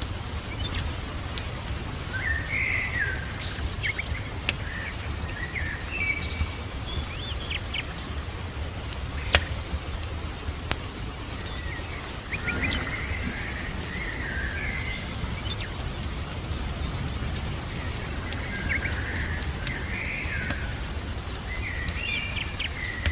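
Birds chirping in short phrases that recur every few seconds, with a few thin high whistled notes. Underneath runs a steady hiss of rain with a low rumble. Occasional sharp pops of a crackling fire cut through, one much louder about nine seconds in.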